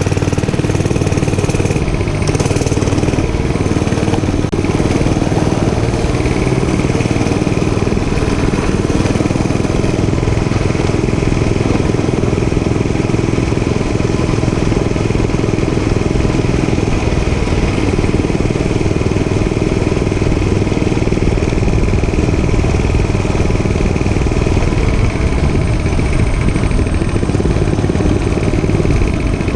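Dirt bike engine running steadily at a loud, even level.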